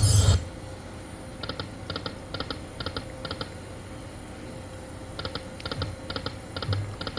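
Electronic sound effects from a Lightning Link High Stakes poker machine: a loud whooshing burst at the start, then two runs of quick paired beeps, about two a second, as the reels spin and stop.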